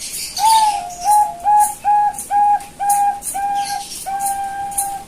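Young zebra dove of the Bangkok strain cooing: a run of about nine short, even notes at a steady pitch, ending in one longer held note near the end.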